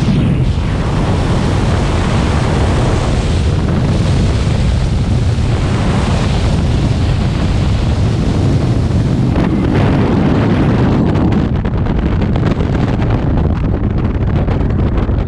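Heavy wind buffeting the camera microphone, a steady loud rush of air with no break, as in a skydive.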